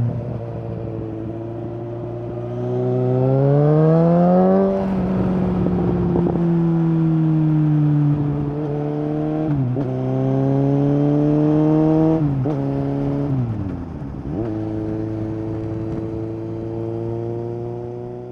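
2019 Suzuki GSX-S750 inline-four running through a Yoshimura SQ11 exhaust with no dB killer and a decat. The revs climb for about two seconds, then a short burst of crackling follows. After that the note holds and slowly sags, with several quick dips and jumps in pitch, and it fades out at the very end.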